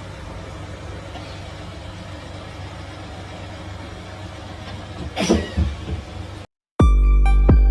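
Steady rumble of a moving vehicle's engine and road noise, broken about five seconds in by a sudden loud burst. The sound cuts out abruptly, and electronic music with a heavy bass beat starts near the end.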